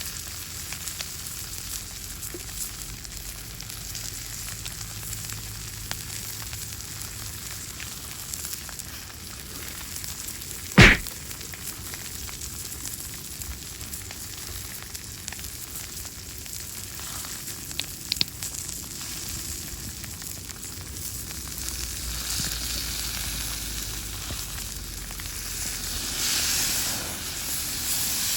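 Steak sizzling over a wood fire, a steady frying hiss. There is one sharp, loud crack about eleven seconds in, and the sizzle grows louder near the end.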